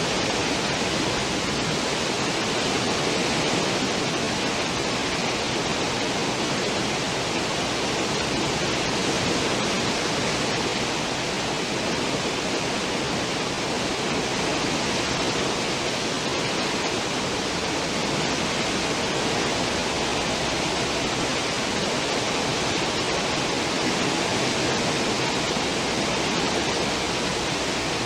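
Cruise ship's wake churning and foaming behind the stern: a steady, even rush of turbulent water.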